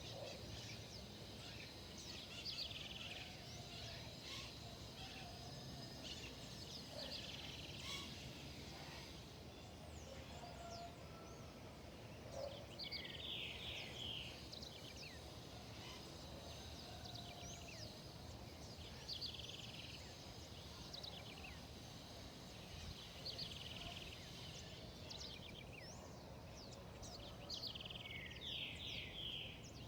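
Wild birds calling in a forest, short high call phrases repeating every few seconds, with a few fainter low notes, over a steady low background hiss and rumble.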